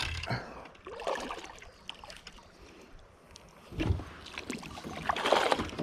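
Irregular water splashing and knocking on a kayak, with louder surges about four seconds in and near the end, as a just-landed bass is handled at the boat.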